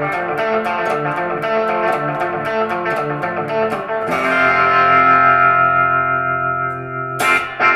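Electric guitar played through a Donner Yellow Fall echo pedal. It begins with quickly repeated picked notes. About four seconds in, a chord is struck and left ringing out. Near the end come a couple of sharp strums.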